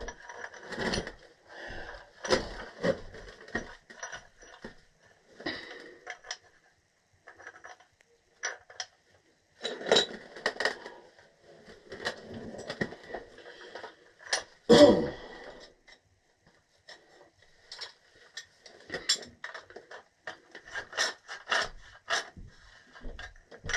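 Metal gas pipe fittings, a union and a close nipple, being handled and threaded together by hand: scattered clinks, taps and short scrapes of metal on metal, with one louder knock about fifteen seconds in.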